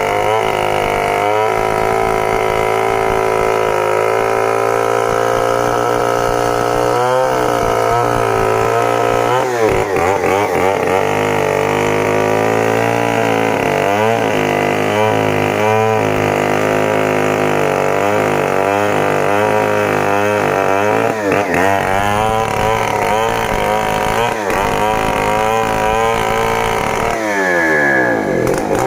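Stihl 070 two-stroke chainsaw running at high revs while cutting a sengon log, its pitch dipping again and again as the chain bogs down in the wood. Near the end the revs fall away as the throttle is let off.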